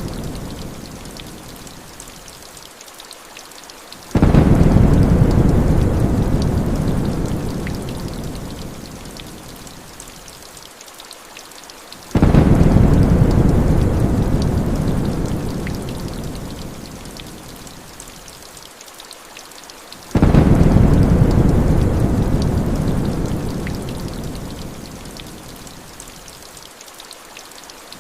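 Steady rain with rolling thunder. Three deep thunder rolls each start suddenly and die away over about seven seconds, and a fourth begins at the very end. They repeat at an even eight-second spacing.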